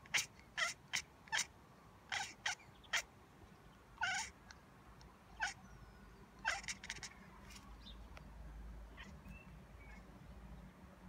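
Domestic cat making a run of short, chirping meows at birds, about a dozen quick calls over several seconds, then fewer and fainter.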